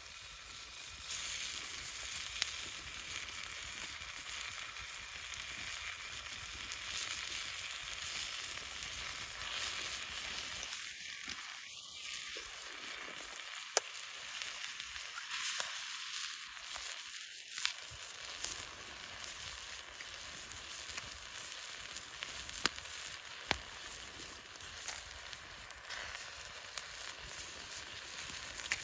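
Food frying in a small frying pan: a steady sizzle with a few sharp pops.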